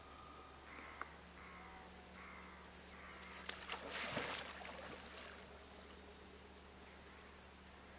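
Faint harsh bird calls, four short calls in quick succession, then a louder, rasping, crackling burst lasting about a second and a half, over a steady low hum.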